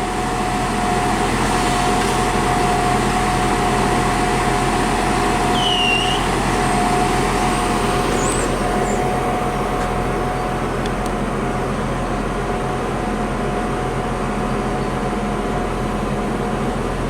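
Diesel train running steadily with a low engine hum and a constant whine. Birds chirp briefly about six and eight seconds in.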